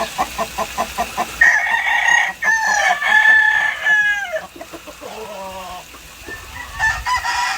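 Quick clucking for about a second and a half, then a rooster crows once in a long, steady call that falls away at the end. Faint clucks follow, and a second, weaker crow comes near the end.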